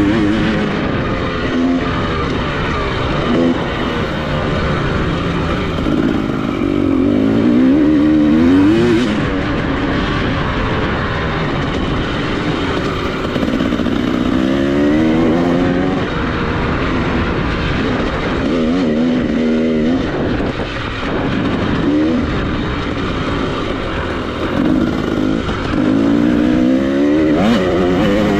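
Dirt bike engine revving hard, its pitch climbing and dropping again and again as the throttle is worked and the gears change.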